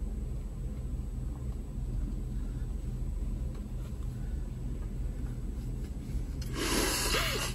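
Vehicle engine idling, a steady low rumble heard from inside the cabin. Near the end a brief loud rustling noise covers it for about a second.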